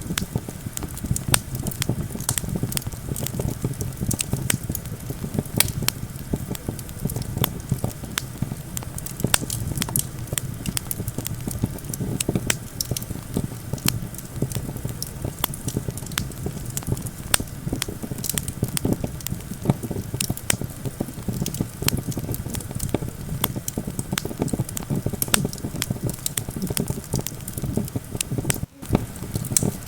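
Wood campfire crackling with frequent sharp pops over a steady low rumble of wind. The sound cuts out for an instant near the end.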